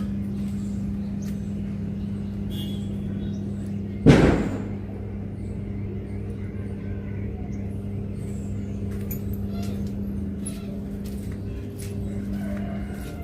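Vehicle running with a steady hum, with one loud knock about four seconds in, like a jolt over a bump.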